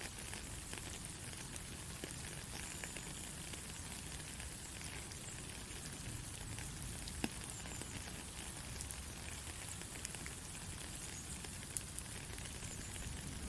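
Steady rain falling: an even hiss with a low rumble underneath and a few sharper drops ticking through it.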